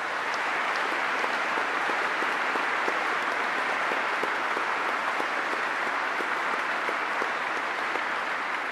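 Audience applause: many people clapping in a dense, even patter that holds steady.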